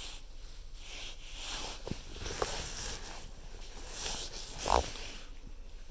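German Shepherd puppies play-fighting: scuffling and snuffling, with a short yip about two and a half seconds in and a louder one just before five seconds.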